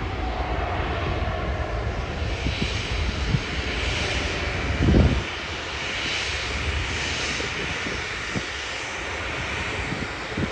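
Jet airliner engine noise from an aircraft near the runway: a steady rumble and hiss, with a faint falling whine in the first second or so. A short low thump about five seconds in is the loudest moment.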